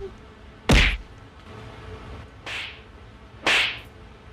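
A series of short swishing whooshes, four of them about a second apart, the first and loudest with a low thud under it.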